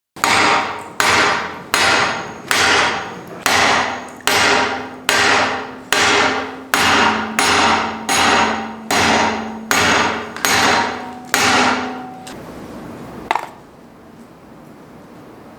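A hammer strikes the steeled face of a small forged wrought-iron anvil about fifteen times at a steady pace of a little over one blow a second, and the anvil rings on after each blow. The blows stop about twelve seconds in, then one lighter knock follows.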